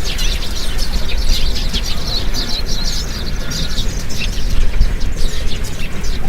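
Several small birds chirping and twittering in quick, overlapping short notes, over a steady low rumble.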